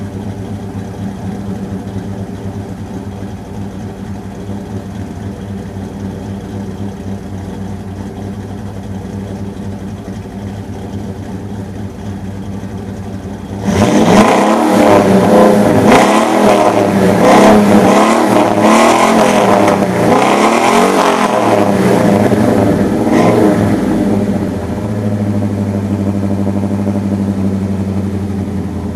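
Rebuilt 5.0 (302) V8 of a 2000 Ford Explorer, with a custom camshaft, headers and a 2.5-inch dual exhaust through a Flowmaster 40 series muffler, idling with a lopey cam rhythm. About halfway through it is suddenly revved several times in quick succession for about ten seconds, then settles to a steady raised idle that eases down near the end.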